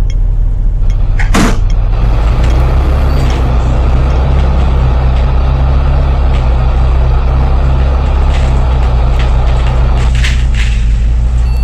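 Bus engine running loudly, heard from inside the cabin, its drone growing stronger about two seconds in. A short sharp hiss of air, typical of the air brakes, comes about a second in and again near the end.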